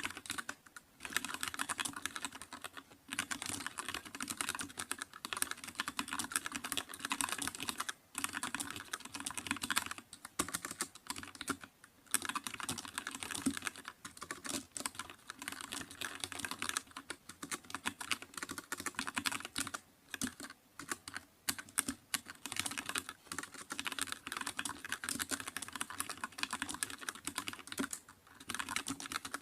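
Computer keyboard being typed on quickly and continuously, a dense patter of key clicks broken by short pauses every few seconds.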